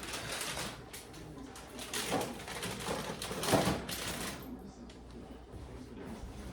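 Household items being handled: a few seconds of rustling and clattering, loudest about two and three and a half seconds in, then quieter.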